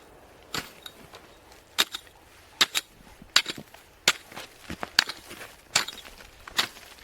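Footsteps crunching in snow at a steady walking pace, eight sharp crunches in a row.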